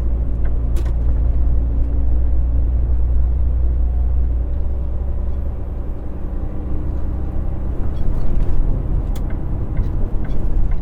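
Semi truck's diesel engine and road rumble heard from inside the cab while driving at highway speed: a steady deep drone, with a couple of short clicks.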